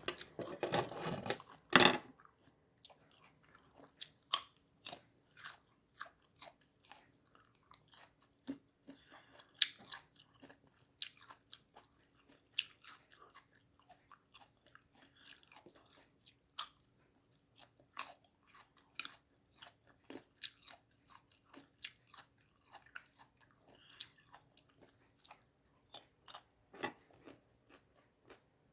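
A crisp, unripe Indian mango being bitten and chewed close to the microphone. A loud crunching bite fills the first two seconds, then chewing continues as irregular crunches and clicks.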